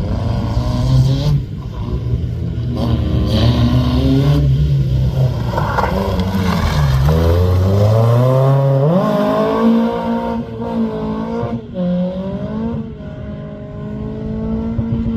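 Rally car engine under hard acceleration, its pitch climbing and dropping back at a series of gear changes, with a long rising pull a little after halfway.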